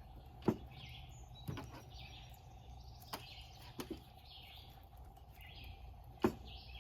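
A small bird chirping over and over, a short high call about once a second, with a few sharp clicks or knocks from handling and cutting, the loudest about half a second in and again near the end.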